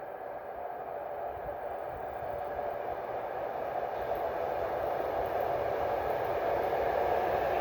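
Approaching train: a steady rumble of wheels on the rails that grows slowly louder.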